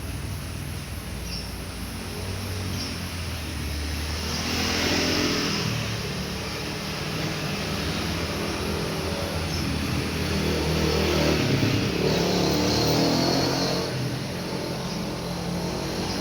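Motor vehicle engines passing, swelling louder about four seconds in and again around twelve seconds in, over a steady background hum.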